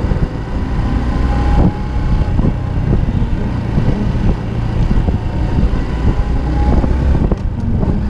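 Honda Cross Cub motorcycle on the move: its small single-cylinder engine running steadily under a dense low rumble of wind on the microphone.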